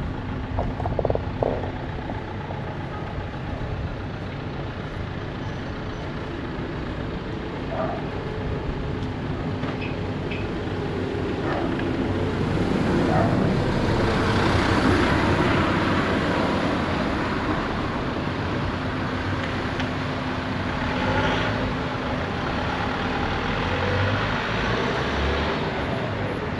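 A motor vehicle passing by, its engine and tyre noise building to a peak about halfway through and then fading, over steady street hum.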